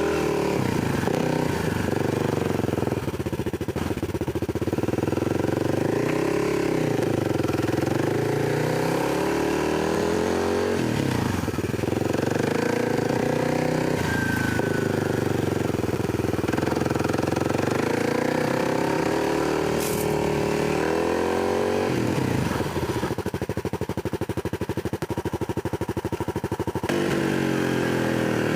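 Dirt bike engine being ridden along a trail, its pitch rising and falling again and again with throttle and gear changes. It settles into a steadier, lower, rougher run for a few seconds near the end.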